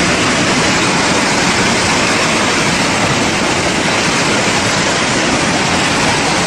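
Fast-moving floodwater rushing, a loud steady roar that holds even throughout.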